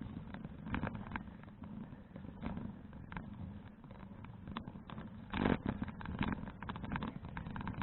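Riding noise of a folding bicycle picked up by a bike-mounted action camera: a steady low rumble of tyres and wind with irregular clicks and rattles over the road surface, one louder rattle a little past the middle.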